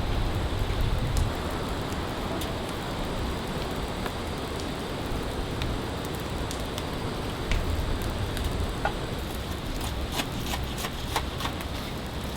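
Steady heavy rain, with scattered drops tapping sharply close by.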